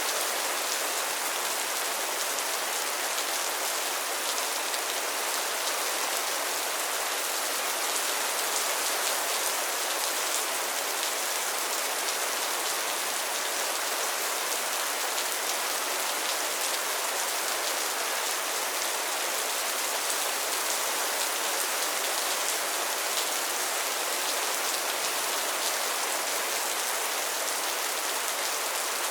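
Steady rain falling on a pond's surface and lily pads, an even hiss of many small drop patters.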